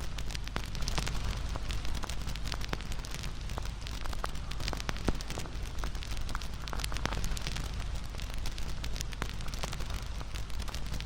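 Wood campfire burning steadily, with frequent sharp crackles and pops over a steady low rumble of the flames.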